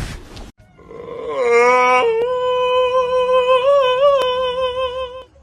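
A dog howling: one long held note that rises at first, then holds steady with a slight waver before stopping.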